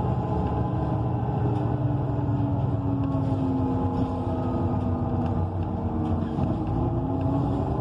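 Inside a moving ENC EZ Rider II transit bus: the Cummins Westport ISL G natural-gas engine and Allison automatic transmission running steadily under way, with a drivetrain hum whose pitch sinks slightly and then rises again, over steady road noise and faint rattles.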